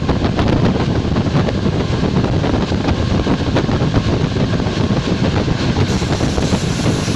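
ČD class 460 electric multiple unit running: a steady, loud rolling rumble of the train in motion, with faint clicks scattered through it.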